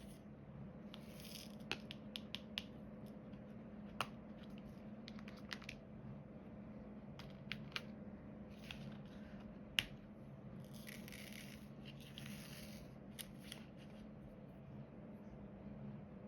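Diamond painting handwork: scattered light clicks and taps as a drill pen sets small resin drills onto the canvas. There are short scratchy rustles about a second in and again a little past halfway. A steady low hum runs underneath.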